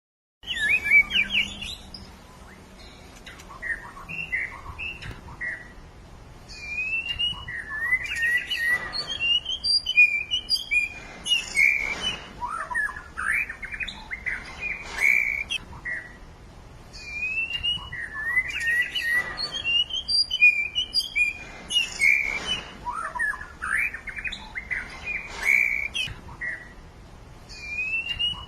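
A songbird singing: rapid runs of chirps and whistled notes in long bursts, with short lulls between them.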